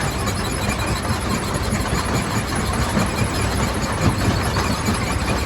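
Quarry primary rock crusher running and breaking stone: a steady low rumble under a dense, irregular grinding clatter of rock.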